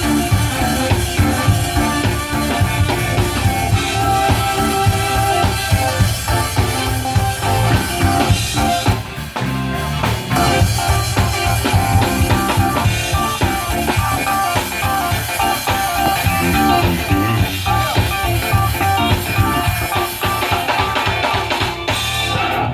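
Live band playing an instrumental passage on drum kit, electric bass and guitar, with a steady beat. The music briefly drops away about nine seconds in and stops at the very end.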